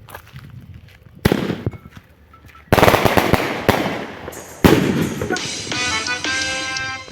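Fireworks going off: a sharp bang about a second in, a dense crackling burst a little later, and another loud bang past halfway. Music with sustained notes comes in near the end.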